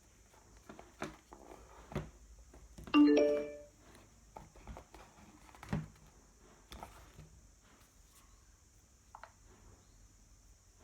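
Bluetooth amplifier module's power-on chime playing through the 4-ohm speaker in a paper-box enclosure: a brief run of electronic tones about three seconds in, the sign that the module has powered up and is ready to pair. Scattered light clicks and knocks of handling come before and after it.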